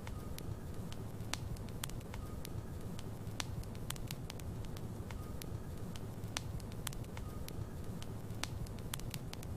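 Logs burning in a fireplace: a steady low rumble of flame with many scattered sharp crackles and pops.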